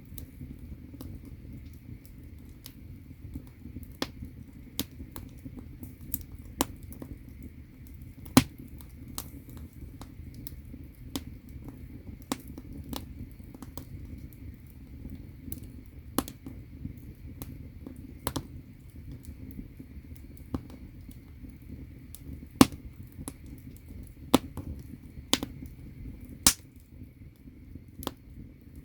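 Firewood burning in an agungi, the traditional Korean firebox that heats an ondol floor: sharp crackles and pops come at irregular moments over the steady low rush of the fire.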